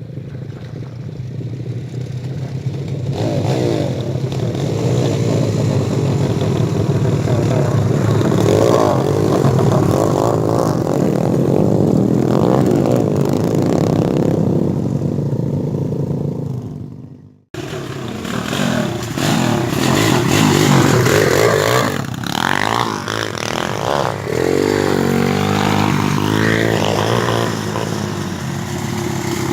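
Off-road motorcycle engine revving up and down as the bike is ridden, with some clatter. The sound cuts out abruptly about two-thirds of the way through and resumes straight after.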